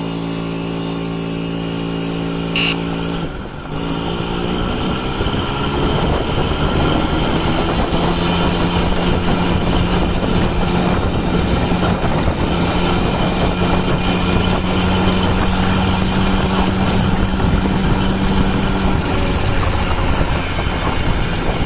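TVS Champ 50cc two-stroke moped engine idling, then pulling away about three seconds in: the engine note climbs as it accelerates, then runs steadily at speed with wind noise.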